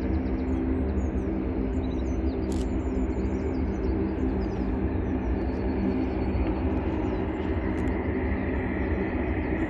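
Jet engines of an Airbus A350-900, Rolls-Royce Trent XWBs, running with a steady rumble and a steady hum, a higher whine joining near the end. Small birds chirp over it.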